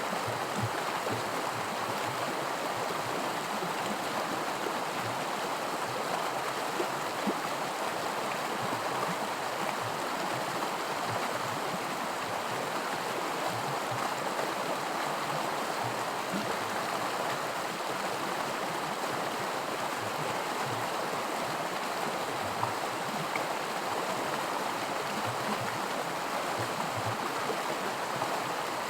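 Creek water running over small rapids, a steady rushing with light gurgles and splashes.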